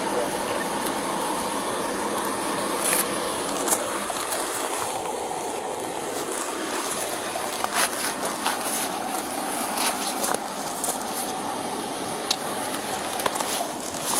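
Steady roadside traffic noise, an even rushing hiss, with a few scattered small clicks and knocks.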